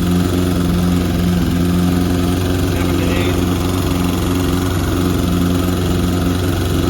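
Honda CB550K's air-cooled inline four-cylinder engine running at a steady speed, with no change in pitch, while its carburettors are being synchronised.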